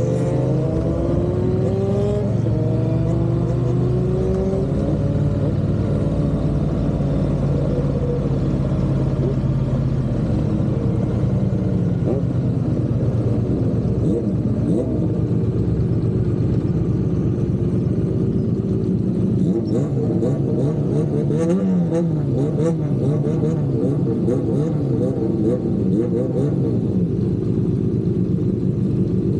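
Triumph parallel-twin motorcycle engine under way, its pitch climbing as it accelerates over the first few seconds, then running at a steady cruise, with the revs rising and falling in the second half.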